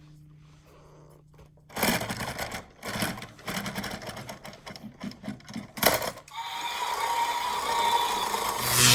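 Small battery-powered toy electric train running: its motor and wheels start suddenly about two seconds in with an uneven clatter, then settle into a steadier whir with a whining tone.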